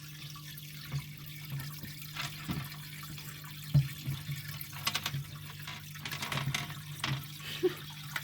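Water sloshing and dripping in a terrapin's tank over a steady low hum, with scattered small splashes and knocks that come more often from about halfway through.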